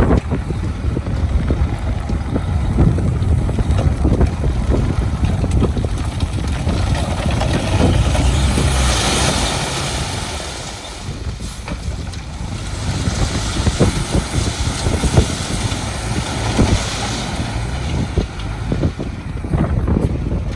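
Heavy diesel construction vehicle running steadily with a deep rumble, with wind buffeting the microphone and a rushing hiss that rises and falls in the middle stretch.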